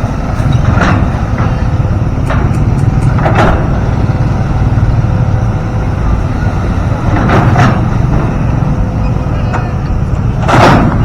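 Heavy diesel construction machinery running with a steady low rumble, broken by several short hisses.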